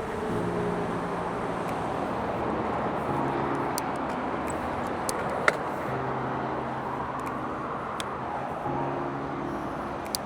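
Steady rushing wind and tyre noise from riding an electric mountain bike, with low humming tones coming and going every couple of seconds and a few sharp clicks.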